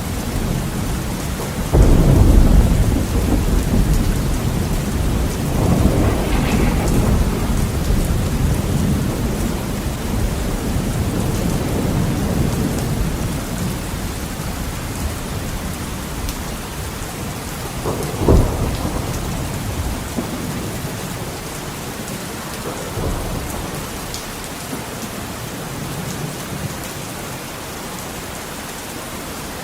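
Heavy rain on a window with a thunderstorm. The rain falls steadily throughout. A loud thunderclap comes about two seconds in and rolls on in long, fading rumbles, and a sharper crack of thunder comes a little past halfway.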